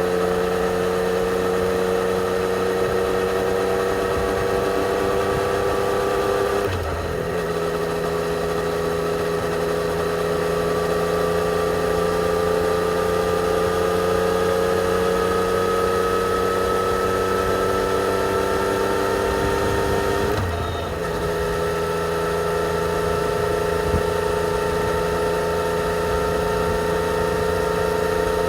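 Yamaha XSR 900's inline three-cylinder engine through its stock exhaust, pulling steadily under way with its pitch slowly rising. The sound breaks briefly twice, about seven seconds in and again near twenty-one seconds, for gear changes, with the pitch dropping a little after each.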